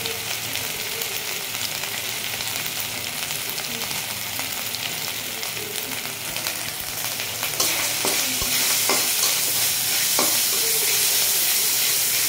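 Chicken, onions and ground spices frying in oil in a kadai (wok): a steady sizzle as the dry masala is fried down before any water is added. About halfway through the sizzle grows louder, with a spatula stirring and scraping the pan.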